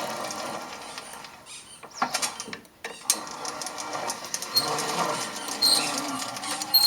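Manual sheet-metal seam-closing machine at work: its rollers and gears rattle, with sharp metallic clicks. The rattle eases off for a moment about a second and a half in, then picks up again.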